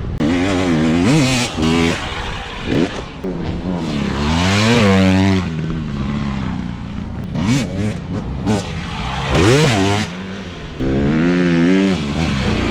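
Motorbike engines revving up and down, with several bikes passing close by, each pitch sweeping up and then dropping as it goes past.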